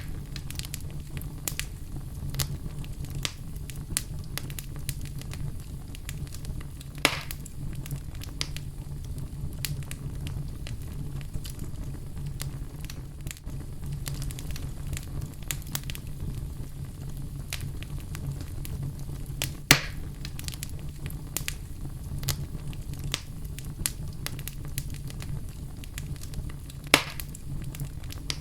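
Wood fire burning in a fireplace: a steady low rumble with frequent small crackles and a few louder pops, about 7, 20 and 27 seconds in.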